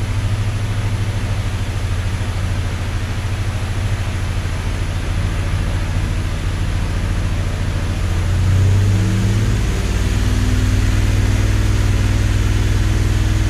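Fuel-injected 455 big-block Oldsmobile V8 running steadily on an engine dyno. About eight seconds in, its speed and loudness rise a little, then hold.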